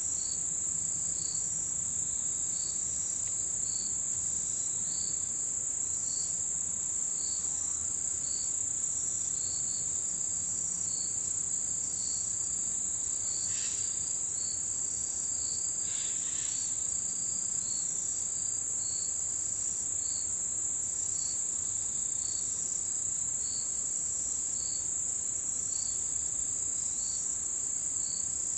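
Autumn insects singing: a continuous high-pitched trill, with another insect chirping in a steady rhythm of about one chirp a second. Two brief, sharper calls stand out near the middle.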